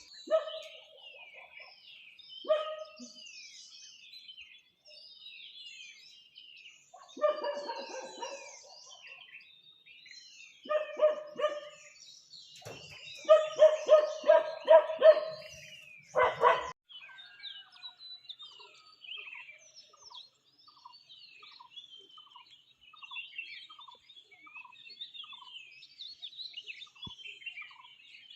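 Many small birds chirping and singing together in a morning chorus, with a dog barking in bursts, the loudest a run of four barks around the middle. In the second half a regular series of short, lower notes repeats about every second under the chirping.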